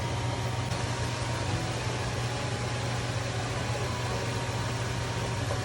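Steady machine hum with an even rushing noise, like a running fan or motor.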